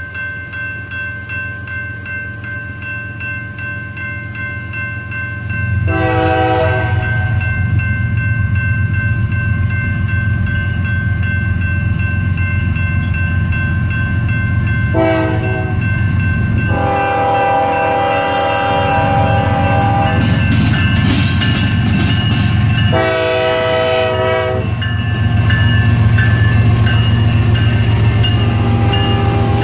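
A train's low rumble grows louder as it approaches, and its multi-note horn sounds four times: about six seconds in, briefly around fifteen seconds, a longer blast from about seventeen to twenty seconds, and again around twenty-three seconds.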